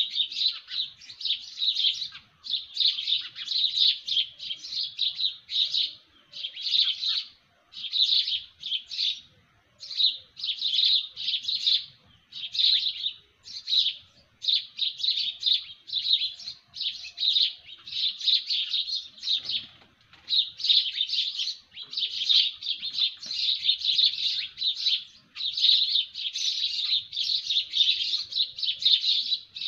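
Birds chirping: runs of rapid, high chirps in short bursts with brief pauses between them.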